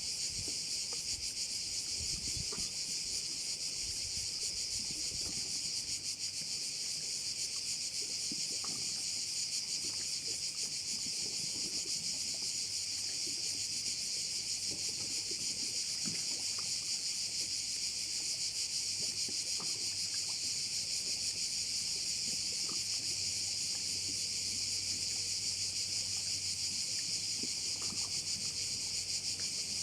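Continuous high-pitched chorus of many crickets (cvrčci) shrilling together without a break.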